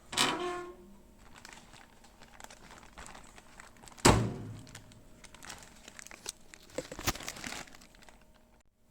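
Kitchen handling sounds while baking: a sharp knock with a short ringing tail as something is set down, a second heavier knock about four seconds in, and crinkling rustling near the end.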